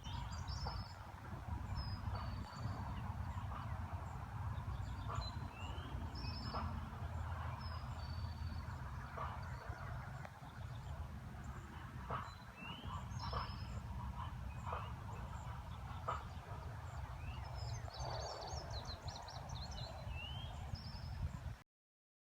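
Birds calling outdoors: short high chirps and trills, and a rising call repeated every several seconds, over a steady low rumble. It all cuts off suddenly near the end.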